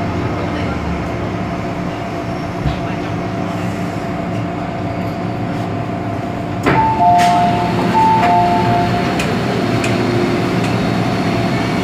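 Inside an MTR M-Train car: a steady electrical and mechanical hum, then a sharp clunk about seven seconds in followed by a two-note electronic chime played twice, the train's door warning tone.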